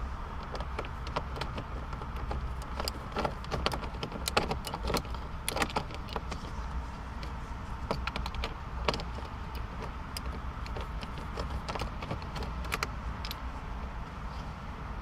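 Irregular small clicks and clinks of hand tools and screws as screws are taken out of the car's dashboard console trim, over a steady low hum.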